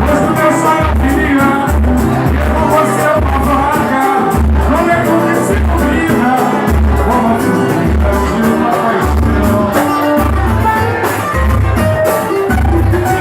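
Live samba music: singing over a band with percussion and a deep drum beat pulsing steadily underneath.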